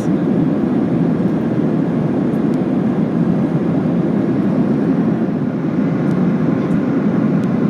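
Steady cabin noise of a Boeing 737-800 in cruise flight, an even rush of airflow and engine noise.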